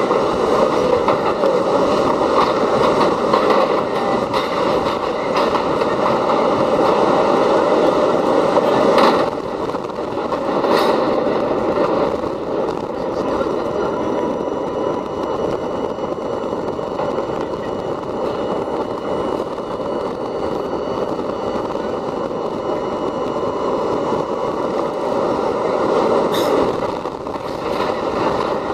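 R32 New York City subway train running at speed: a steady rumble and rush of wheels on rail, with a few sharp clacks. The sound drops a little about nine seconds in.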